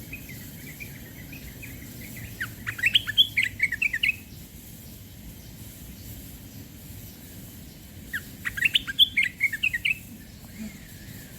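A small songbird singing two quick phrases of rapid high chirps, about five seconds apart, with fainter chirping before the first phrase.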